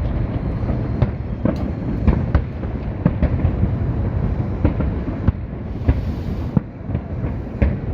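Fireworks going off in quick succession: many sharp bangs over a continuous low rumble of echoing bursts, with a short crackling hiss about six seconds in.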